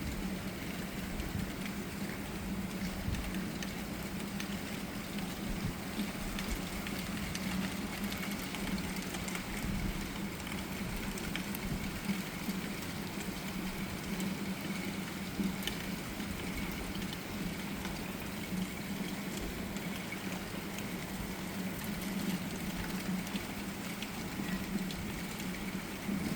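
Steady rain falling during a thunderstorm, an even hiss with scattered faint drop ticks, over a steady low hum. No thunder rises above it.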